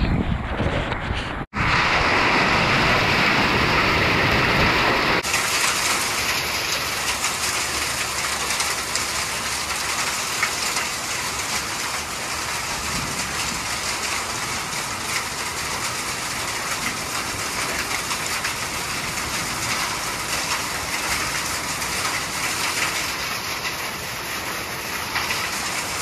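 Heavy rain mixed with hail, a dense, even hiss and patter of drops and hailstones striking surfaces. The sound drops out for an instant about a second and a half in, then runs on a little differently after about five seconds.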